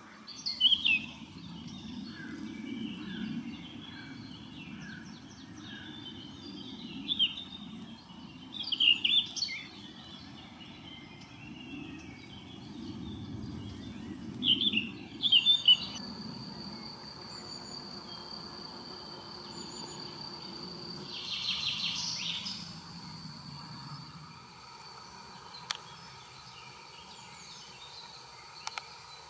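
Songbird singing in short, loud, varied phrases through the first half. After that a thin, steady, high insect-like drone carries on, with a brief pulsed burst of chirping in the middle of it.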